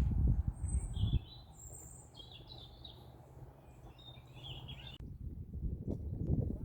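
Small songbirds chirping and calling in short high notes, over a low rumble that is loudest in the first second. The birdsong stops suddenly about five seconds in, leaving only the low rumble.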